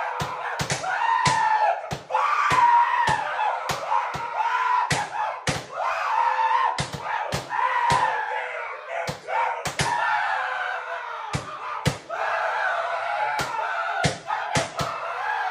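A high voice screaming on and on, its pitch wavering, while sharp slaps or slams land over and over, roughly two a second.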